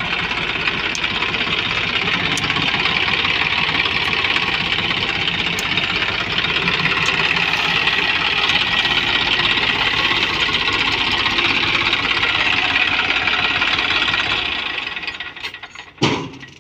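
Tractor diesel engine running steadily, then dying away about fifteen seconds in, followed by a single sharp thump.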